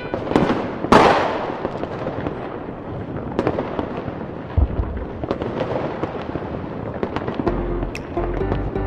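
Fireworks going off: a big bang about a second in, then scattered pops and crackling bursts, with music playing underneath.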